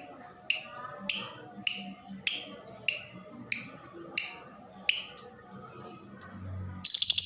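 Lovebird giving about nine sharp, high single chip calls, one every half second or so, then breaking into a fast rattling trill near the end. This is the 'ngetik' ticking running into 'ngekek' chatter that lovebird keepers listen for.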